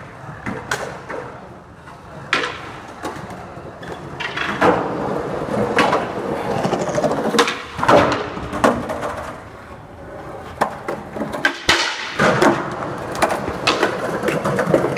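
Skateboard wheels rolling and rumbling, with repeated sharp clacks and slaps of the board hitting the ground as tricks are tried and landed. The rolling swells and fades over the stretch.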